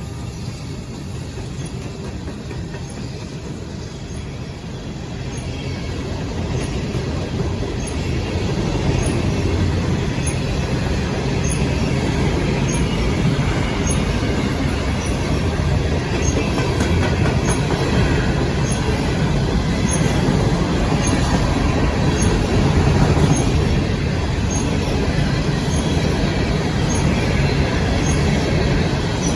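Coal train cars rolling past with a steady rumble of wheels on rail, growing louder about five to nine seconds in and then holding, with some wheel squeal above it.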